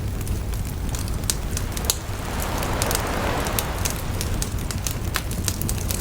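Wood bonfire crackling, with frequent sharp pops over a steady low rumble; a soft rushing swell rises and falls about two to four seconds in.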